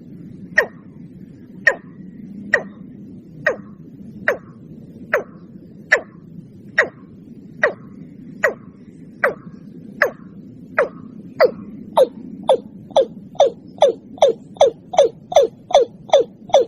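Watercock calling: a series of short, sharp notes, each dropping quickly in pitch. They come about one a second, then speed up to about three a second near the end, over a steady low hum.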